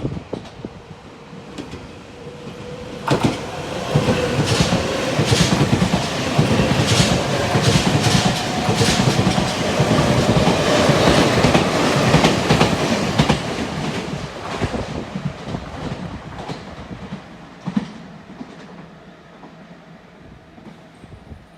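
Electric commuter train passing on the track, its wheels clicking over the rail joints in a string of beats. It builds up over the first few seconds, is loudest in the middle, and fades away over the last several seconds.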